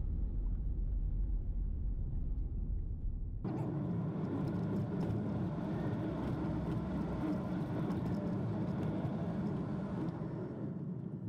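Toyota Prius driving on a logging road: a low road rumble, then about three and a half seconds in an abrupt change to rougher, fuller tyre and road noise with scattered small ticks.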